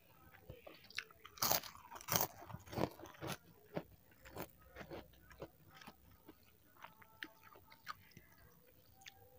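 Close-miked chewing of a mouthful of saucy fried instant noodles (mie nyemek made from Indomie goreng): quick wet mouth clicks and smacks, loudest in the first few seconds, then fainter and sparser. Later, light clinks of the spoon and fork on the plate as more noodles are taken.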